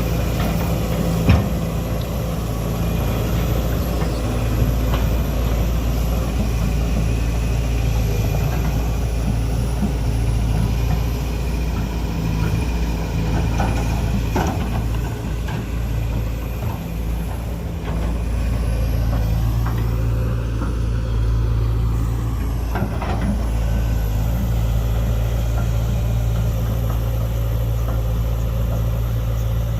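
Heavy diesel engine running steadily at idle, with a sharp knock about a second in.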